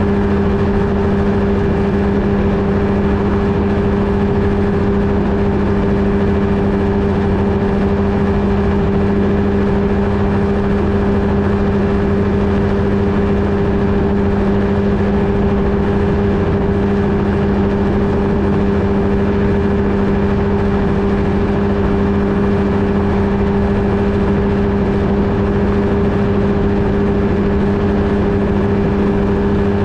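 Flightstar II ultralight's engine running at a constant, steady power setting, picked up by a camera mounted on the aircraft along with steady rushing noise.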